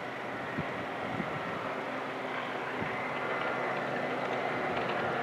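Airbus A330-300 jet engines running at low power: a steady whine and rush that slowly grows louder, with a few faint knocks in the first three seconds.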